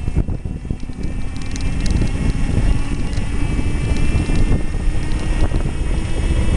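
Wind buffeting the microphone on a riding 48-volt home-built electric motorcycle, with the electric drive's thin whine over the rumble, a low tone creeping slowly up in pitch as the bike gathers speed.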